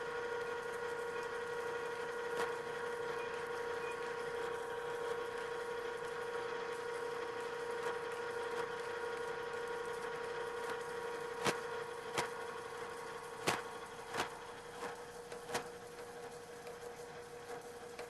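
Drill press running under its automatic power feed, drilling through a part: a steady machine hum and whine. About eleven seconds in, a handful of sharp clicks come and the running grows quieter, as the drill breaks through the far side of the part.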